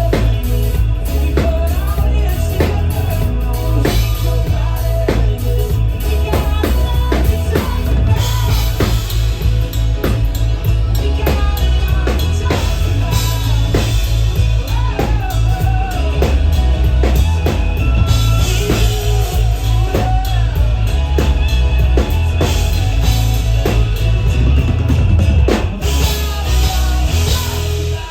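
Live band playing amplified through a PA, with a drum kit beat and a heavy bass line.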